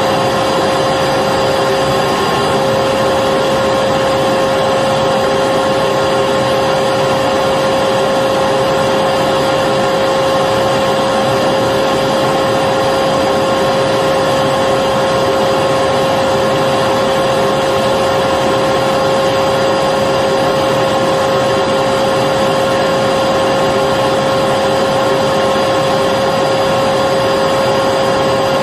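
Vacuum cleaner running continuously: a steady rushing of air with a constant whine from the motor, unchanging throughout.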